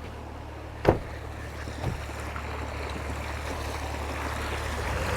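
A four-wheel-drive vehicle's engine running low and steady, with a sharp knock about a second in and a fainter knock a second later.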